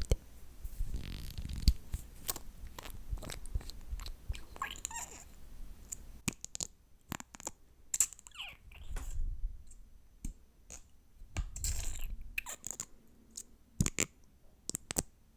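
Close-miked ASMR mouth sounds: sticky, wet clicks and smacks with chewing and licking of lip gloss, coming irregularly with short pauses between.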